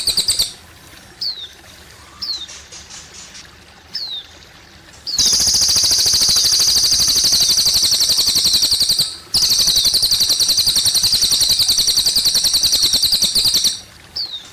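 A cililin songbird singing: very fast, high rattling trills in two long bursts of about four seconds each in the middle, with short single falling chirps before and after them. Faint trickling water runs underneath.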